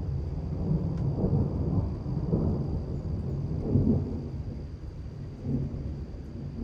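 Rolling thunder from a thunderstorm, a long low rumble that swells for about four seconds and then fades.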